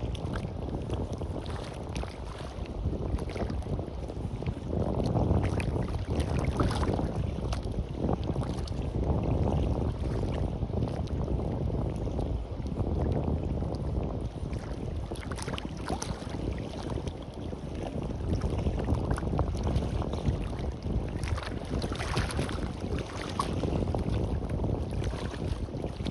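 Sea waves washing onto the beach, rising and falling in swells, with wind rumbling on the microphone.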